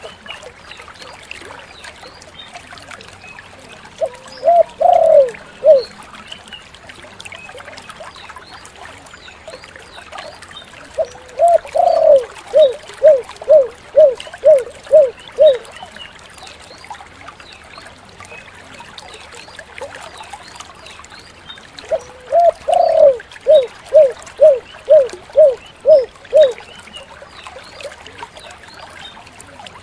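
Spotted dove (tekukur) cooing three times: a short phrase about four seconds in, then two long phrases, each a drawn-out opening coo followed by a string of about eight short, evenly spaced coos. A steady hiss runs underneath.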